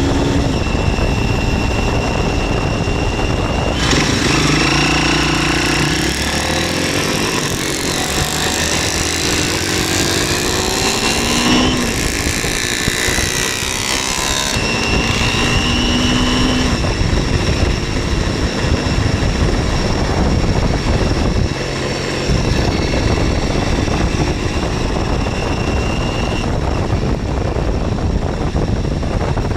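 2007 MZ 125 SX scrambler's single-cylinder four-stroke engine running while riding, its pitch rising and falling with throttle and gear changes, mixed with steady wind and road rush.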